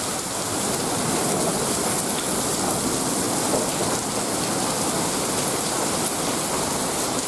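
Heavy rain pouring down steadily in a thunderstorm, an even unbroken hiss of rain.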